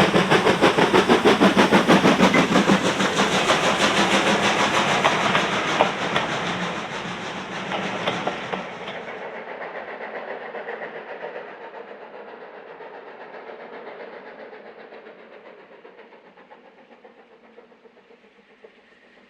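A train running by, its fast rhythmic beat loud at first and fading steadily as it draws away, down to a faint rumble near the end.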